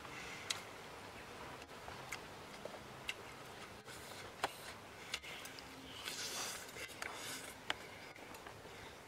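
Close eating sounds of a whole roasted frog being bitten and chewed: irregular sharp crunches and clicks, with a softer wet, crackling stretch of chewing about six to seven seconds in.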